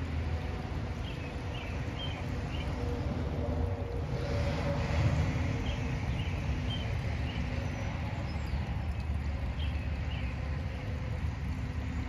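Small groups of short, high bird chirps, three or four at a time, repeating every few seconds over a steady low outdoor rumble. A rush of wind-like noise swells briefly about four seconds in.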